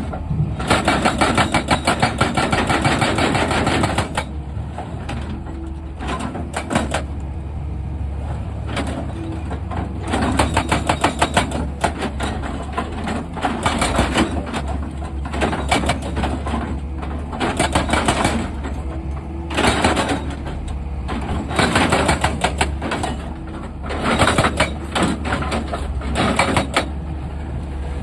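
Excavator's diesel engine running steadily, with five bursts of rapid hammering lasting one to four seconds each.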